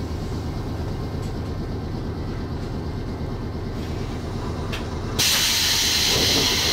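Low steady rumble of a Gakunan Railway electric train, then a sudden loud hiss of compressed air starting about five seconds in.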